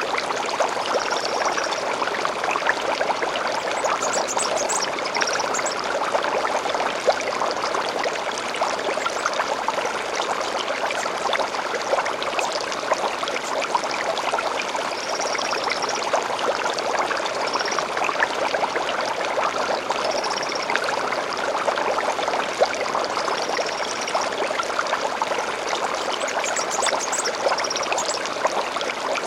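Small stream of water babbling and trickling steadily, with short high bird chirps breaking in every few seconds.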